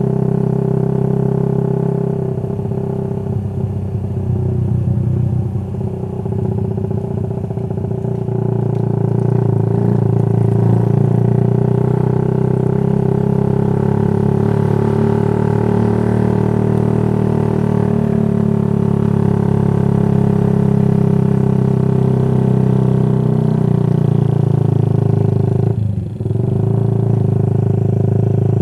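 Motorcycle with an aftermarket racing exhaust running steadily under way, its engine note loud and even. Near the end the sound drops sharply for a moment, as with the throttle briefly closed, then picks up again.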